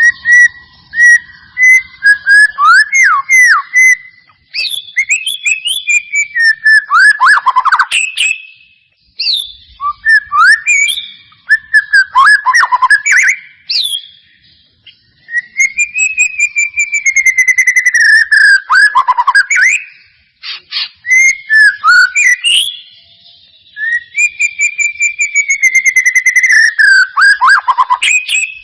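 White-rumped shama song: about six phrases of a few seconds each, separated by short gaps. Each phrase mixes loud clear whistles, many gliding downward, with rapid high chattering trills.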